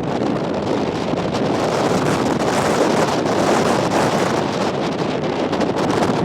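Strong wind buffeting the microphone: a loud, continuous rush of wind noise.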